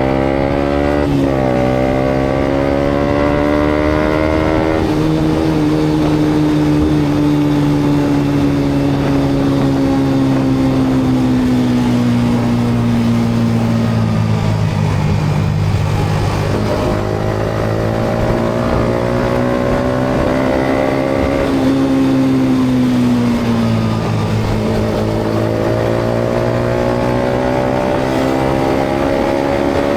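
Yamaha MT-125's single-cylinder four-stroke engine through a GPR aftermarket exhaust while riding. The engine note climbs for the first few seconds, falls slowly for about ten seconds, climbs again, drops briefly, and climbs once more near the end, over steady road noise.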